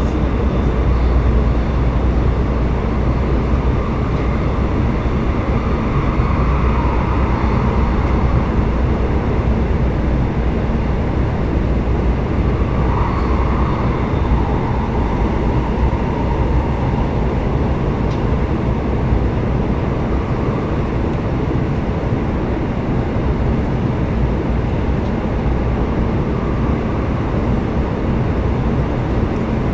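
Steady rumble and rush of a passenger train running at speed through a tunnel, heard from inside the carriage.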